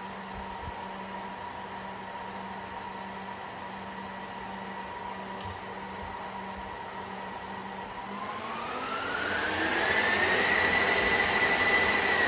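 HPE ProLiant DL360 Gen10 server's cooling fans running with a steady whine. About eight seconds in they ramp up, the pitch rising and the sound getting much louder over two seconds, then hold at a high-speed rush.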